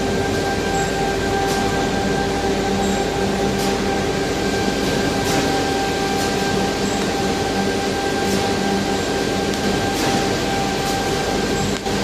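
A power tool running steadily at constant speed: an even hiss with a held hum and faint ticks about once a second.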